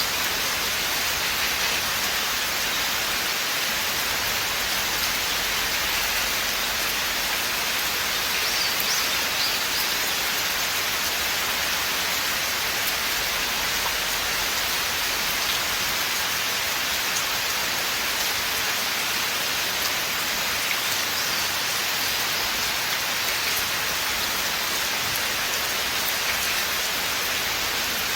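Steady rain falling in a forest: an even hiss of many drops, with faint scattered patters.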